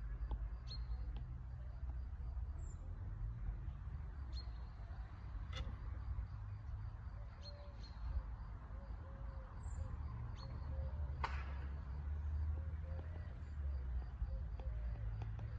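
Outdoor ambience: a steady low rumble with scattered faint bird chirps and a run of soft, low repeated calls in the second half, broken by two sharp clicks about five and eleven seconds in.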